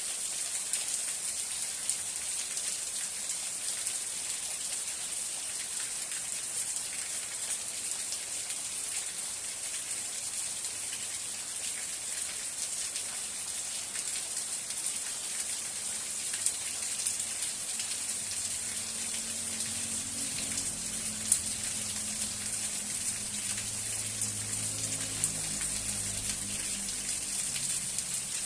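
Steady rain falling, an even hiss with scattered louder drop ticks. A faint low hum joins in about halfway through.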